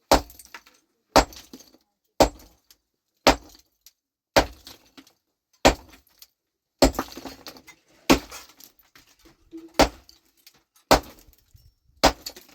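Rock being broken by hand with a hammer: sharp strikes about once a second, each followed by a brief rattle of chips and fragments.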